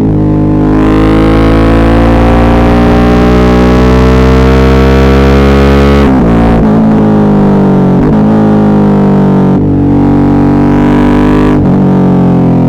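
Suzuki V-Strom 650's 645 cc V-twin engine pulling under load. The revs climb steadily for about six seconds, drop sharply at an upshift, then climb again, with further dips in revs near the end.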